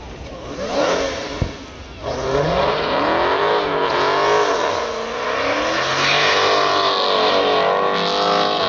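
Car engine revving hard, its pitch swinging up and down again and again, starting about two seconds in.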